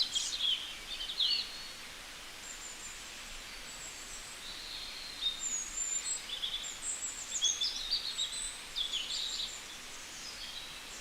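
Small birds chirping and trilling, many short high-pitched calls scattered through, over a steady faint background hiss.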